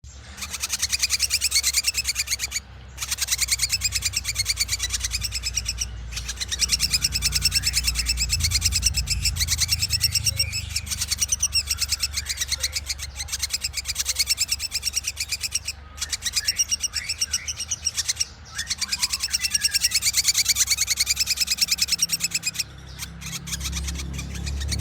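Ashy drongo singing vigorously: long runs of rapid, high, repeated notes, broken by a few brief pauses.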